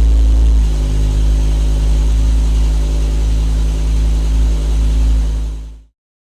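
BMW M5 E60's S85 V10 engine idling steadily just after a cold start, a deep, even drone through the exhaust. It cuts off abruptly about six seconds in, leaving silence.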